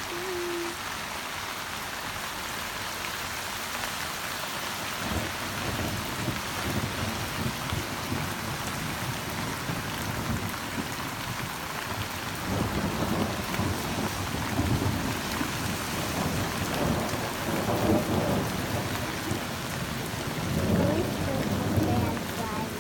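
Steady rain falling, with thunder rumbling in from about halfway through in rolling swells, loudest near the end.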